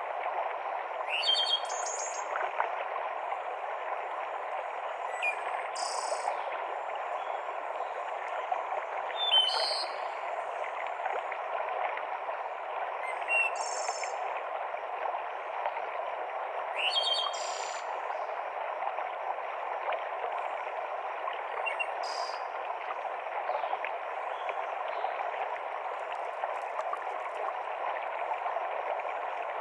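Mountain stream cascading through a forest, a steady rush of water, with short high bird calls every few seconds.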